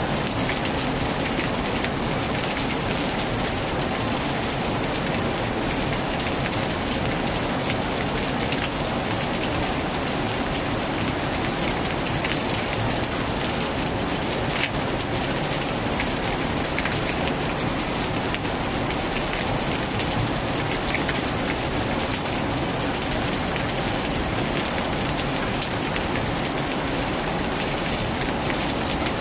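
Heavy rain falling steadily on a tin roof, with a few sharper drop ticks now and then.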